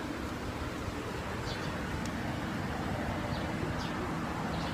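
Steady low hum of an idling car engine, with a few faint, short high chirps.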